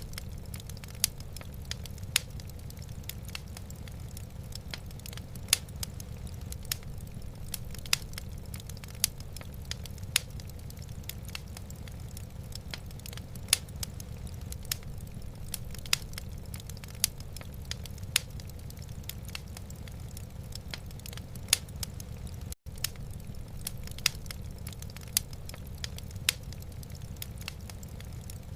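Wood fire in a fireplace crackling, with irregular sharp pops, some much louder than others, over a steady low rumble. The sound cuts out for an instant about three-quarters of the way through.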